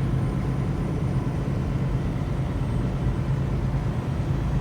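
Semi-truck running on the road: a steady low engine and road drone with no change in pitch.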